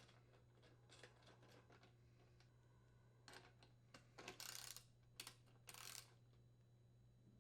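Faint scattered clicks and two short rasping bursts about halfway through: a socket wrench threading and tightening the door handle's mounting nuts, over a low steady hum.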